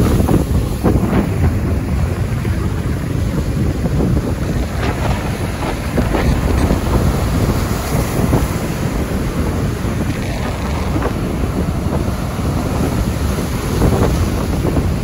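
Strong wind buffeting the microphone, a loud, steady low rumble with scattered faint crackles.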